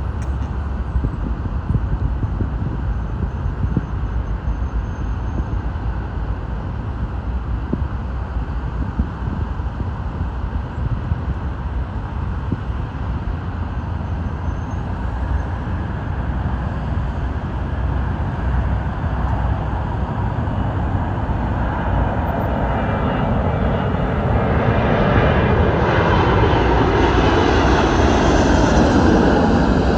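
Four-engine Airbus A380 jet noise and rushing air during landing, steady at first, then growing louder and fuller from about two-thirds of the way through.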